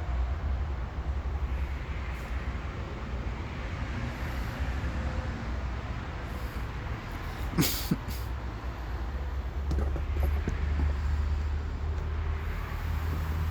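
Metal parts of a partly dismantled lawn tractor transmission being handled: one sharp metallic clank with a brief ring about halfway through, then a few light clicks, over a steady low rumble.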